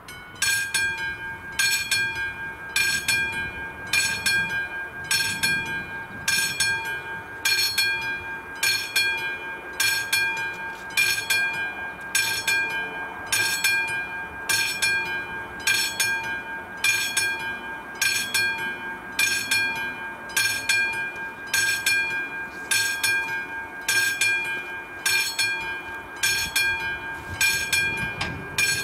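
Level crossing warning bell on AŽD 71 warning signals, switching on and ringing in an even rhythm of about three strikes every two seconds: the crossing has activated for an approaching train.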